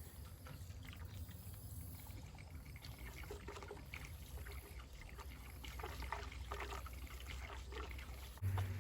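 Gasoline pouring into a pickup's fuel tank, a faint trickling pour; the tank's leak has been patched with gasket sealer and the filling tests whether it holds. A louder low hum starts suddenly near the end.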